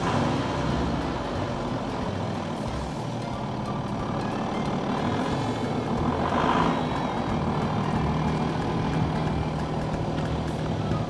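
A car engine running steadily, swelling briefly about six and a half seconds in.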